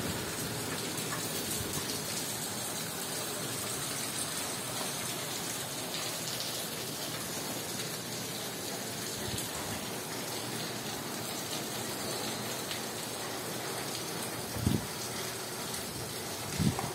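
Steady rain falling during a tropical storm, an even hiss of rain on surfaces. Two brief low thumps come near the end.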